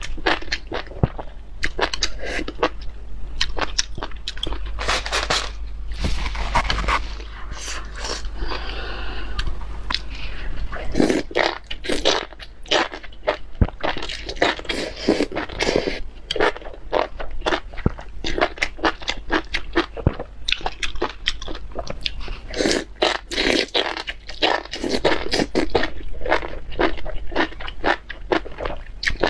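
Close-miked chewing of spicy enoki mushrooms: a continuous run of quick wet crunching and squelching clicks as the mouth works the stringy mushrooms.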